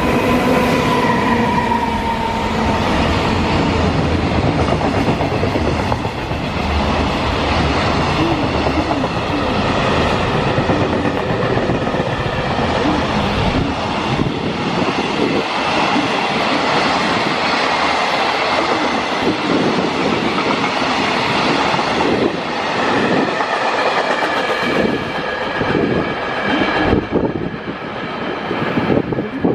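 Freight train passing close by, loud and continuous, with a steady whine in the first couple of seconds. From about halfway through, the wagons' wheels clatter over the rail joints.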